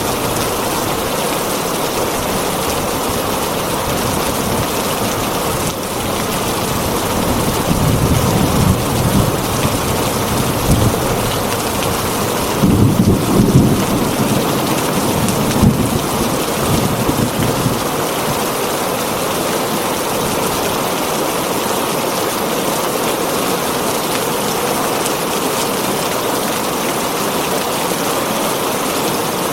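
Heavy rain falling steadily on a tin roof. A long roll of thunder rumbles in about a quarter of the way through, is loudest near the middle and dies away, leaving the steady rain.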